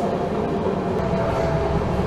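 NS Class 1700 electric locomotive running: a steady low rumble with a held whine from its motors.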